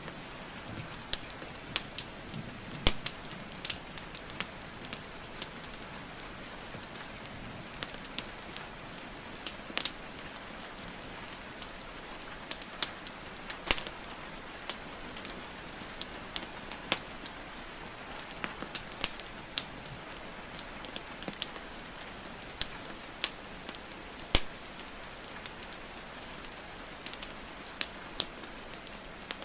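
Wood fire crackling with irregular sharp pops and snaps over a steady hiss of rainfall.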